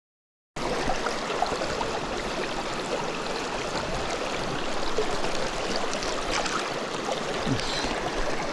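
Mountain stream water running, a steady rush that cuts in abruptly about half a second in after dead silence.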